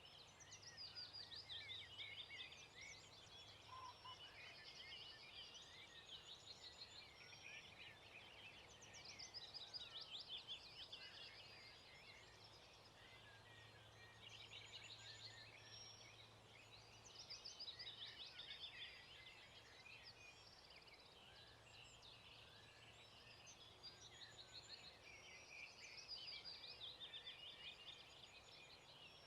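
Faint dawn chorus: many songbirds singing at once, their chirps and trills overlapping and swelling in bouts every several seconds.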